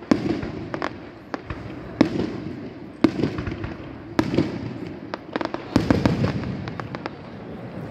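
Aerial firework shells bursting in a display: sharp bangs about once a second, with smaller cracks between them.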